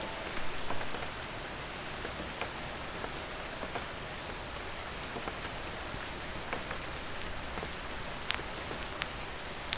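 Steady rain falling on hard surfaces, an even hiss with scattered individual drops ticking, a few of them louder about half a second in, near the middle and near the end.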